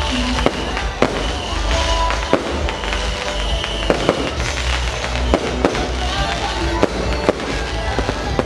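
Fireworks going off in a rapid, irregular run of bangs and crackles, over music with a steady low bass.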